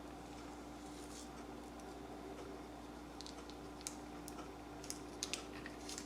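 Faint small clicks and ticks of craft materials being handled on a work surface, a few scattered through the second half, over a steady low hum.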